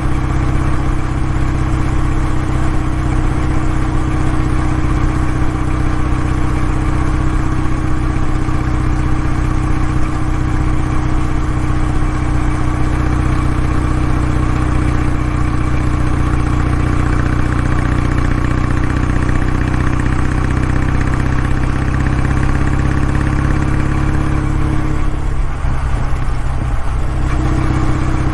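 Exhaust note of a Kawasaki W650's parallel-twin engine running steadily at an even pitch, which dips and falters briefly near the end before settling back to the same note.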